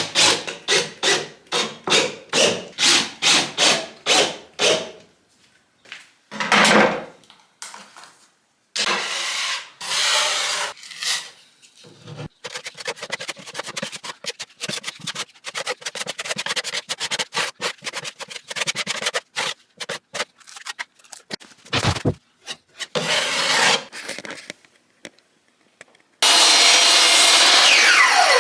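Hand work on wood: about a dozen quick, even back-and-forth strokes like hand sawing in the first five seconds, then irregular scraping and knocks. Near the end comes a few seconds of steady loud machine noise with a falling whine in it.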